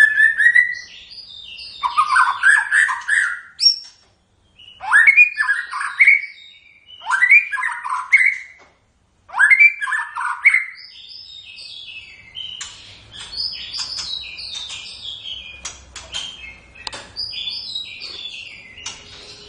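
White-rumped shama (murai batu) singing: loud, rich phrases of rising whistled notes about every two seconds, then past the middle a quicker, higher run of twittering.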